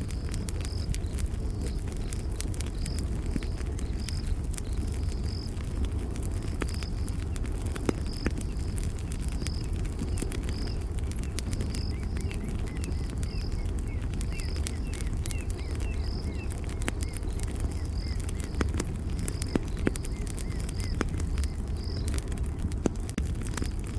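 Campfire crackling, with frequent sharp pops over a steady low rumble of the burning fire. High insect chirps repeat evenly about once or twice a second, like a cricket, and faint bird twitters come in around the middle.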